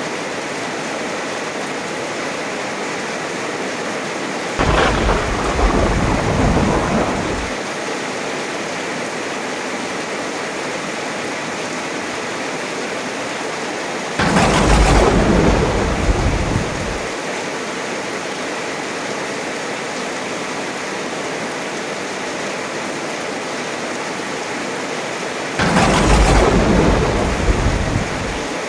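Steady heavy rain with three thunderclaps about ten seconds apart, each starting sharply and rumbling for about three seconds.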